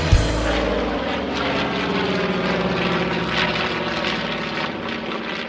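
Airplane engine drone, steady and even, beginning to fade near the end.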